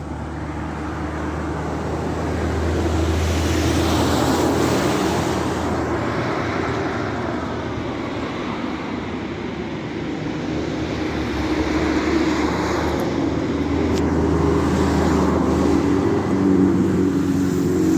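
Motor vehicle engine running with a steady low hum, swelling louder about three seconds in and again from about twelve seconds.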